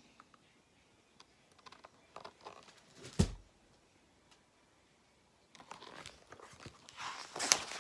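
Paper handling of a picture book during a read-aloud: faint rustles and clicks, a single sharp knock about three seconds in, then a longer stretch of rustling near the end, as when a page is turned.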